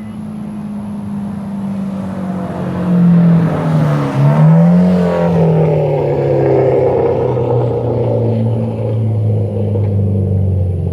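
Mitsubishi Lancer Evolution X's turbocharged 2.0-litre four-cylinder, fitted with an open-dump downpipe and ETS Extreme exhaust, driving by under power. The engine note builds, dips and climbs again briefly around the loudest point, then falls steadily in pitch while staying loud.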